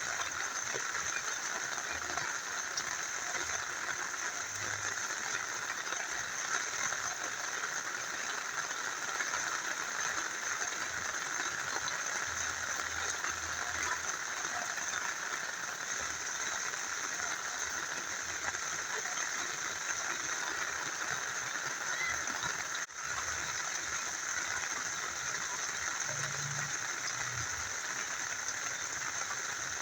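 Rain falling and a small river flowing, an even steady hiss of water, with a momentary dropout about three-quarters of the way through.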